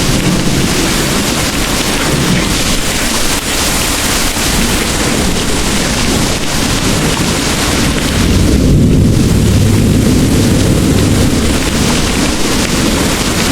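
Heavy rain pouring steadily in a thunderstorm. A low rumble of distant thunder swells about eight seconds in and rolls on for a few seconds.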